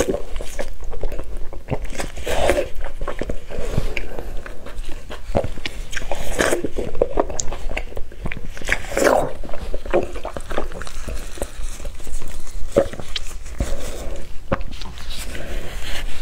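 Close-miked eating sounds: biting into and chewing soft, saucy steamed pork (fen zheng rou), with wet mouth clicks throughout and a stronger bite every few seconds.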